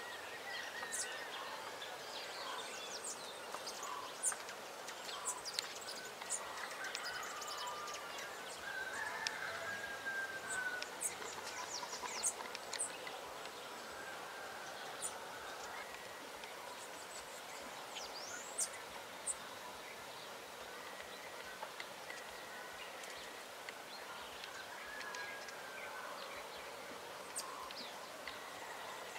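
Several birds chirping and calling outdoors: many short sharp chirps and a few whistled calls that slide in pitch, over a faint steady background hiss.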